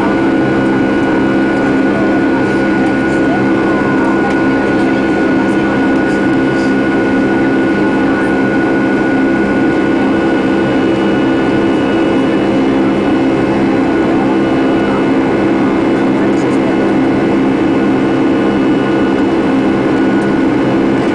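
Jet airliner engines heard from inside the passenger cabin: a steady drone with several constant whining tones, holding even throughout.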